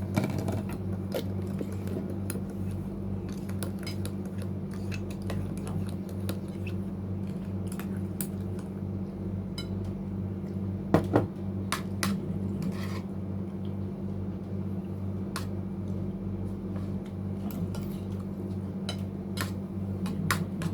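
Spoons and forks clicking and scraping against plates while people eat, in scattered irregular taps with a louder double clink about halfway through, over a steady low hum.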